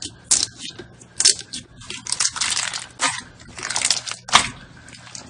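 Slime being squeezed and pressed by hand, giving irregular crackling crunches, with two longer runs of crackle around the middle.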